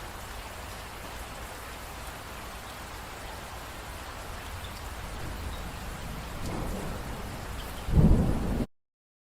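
Steady rain falling, with thunder rumbling in about two-thirds of the way through and a loud, deep thunderclap near the end before the sound cuts off abruptly.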